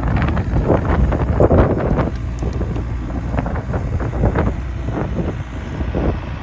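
Excavator engine running steadily, with wind buffeting the microphone in irregular gusts that are heaviest in the first two seconds.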